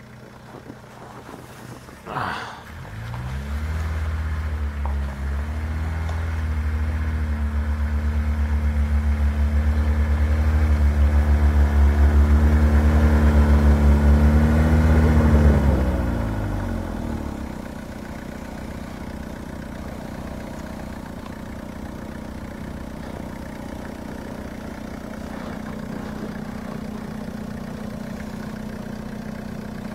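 Mahindra Bolero SLX 4WD's four-cylinder diesel engine revving hard under load while the vehicle pushes through deep snow on snow chains. After a brief sharp sound about two seconds in, the revs climb and stay high for over ten seconds, then fall a little past halfway and settle to a steady lower running.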